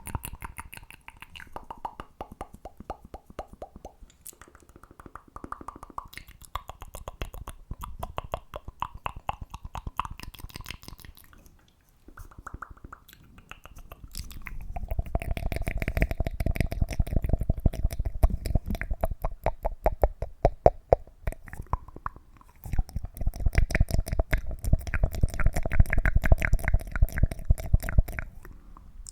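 Rapid, close-miked ASMR clicking and popping, many small sounds a second. It is softer in the first half and louder from about halfway, where a steady ringing tone runs under the clicks.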